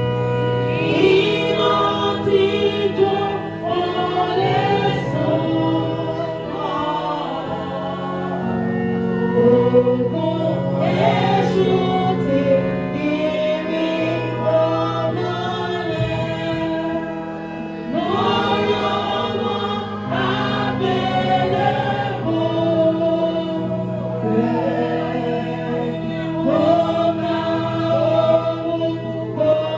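A church choir singing a gospel hymn over sustained accompanying chords.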